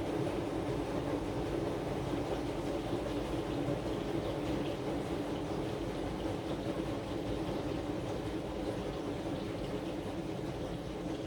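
Aqua AQW-DX12M front-loading drum washing machine running steadily mid-cycle, its drum turning with the laundry and water sloshing inside. It is picked up by a phone lying on the machine's top, so the motor hum and the cabinet's vibration come through strongly.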